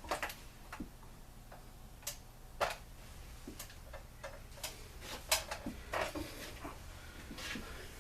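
Irregular small clicks and taps from hand tools and small engine parts being handled during a two-stroke blower teardown, over a low steady hum.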